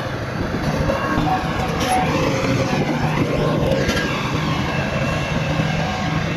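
Bulldozer's diesel engine running steadily under load, a continuous low drone with rough mechanical noise over it.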